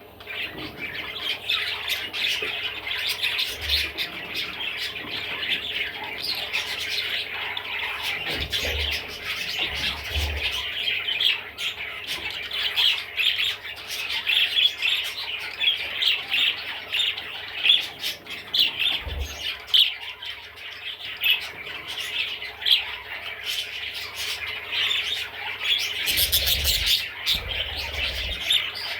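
Budgerigar chattering and warbling without a break, a fast run of short chirps and squawks, with a few soft low thumps.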